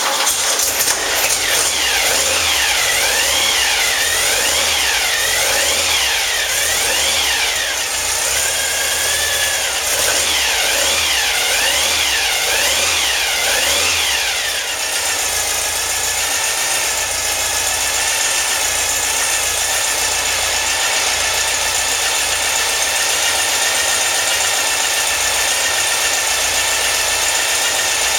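A 2332cc air-cooled VW flat-four with dual Weber 48IDF carburettors and an A1 exhaust starts up and is revved up and down repeatedly. It then settles to a steady idle about halfway through.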